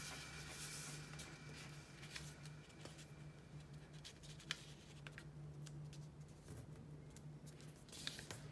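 Faint sheet of paper being handled and folded, soft crinkles and creasing clicks scattered throughout, over a steady low electrical hum.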